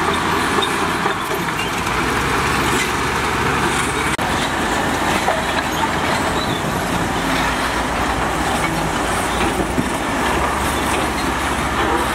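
Diesel engines of heavy earthmoving machinery running steadily and loudly.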